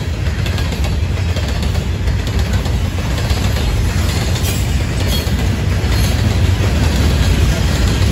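Florida East Coast freight train's open-top hopper cars rolling past close by: a steady, loud rumble of steel wheels on the rails.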